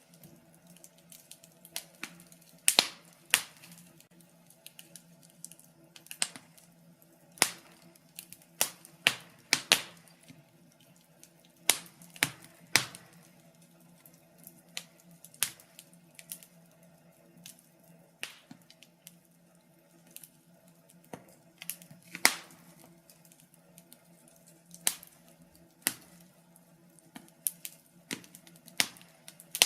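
Wood fire in a fireplace crackling, with irregular sharp pops about once a second, some much louder than the rest, over a faint steady low hum.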